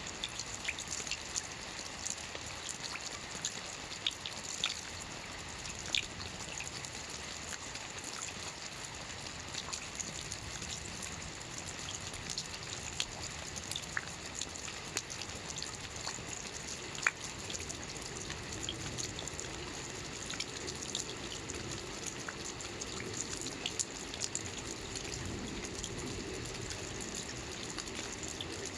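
Rain falling on a lake: a steady hiss of rain on the water, dotted with sharp drop ticks, with a lower watery rushing that grows stronger about two-thirds of the way in.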